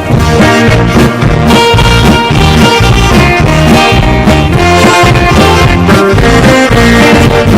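Live band playing in E-flat: saxophone melody over electronic keyboard, guitar and drum kit, with a steady beat.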